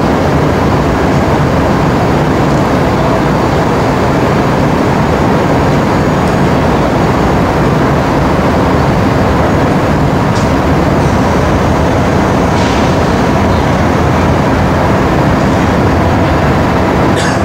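Freight train rolling by close at speed: a loud, steady rolling rumble of steel wheels on rail, with a few brief high squeaks.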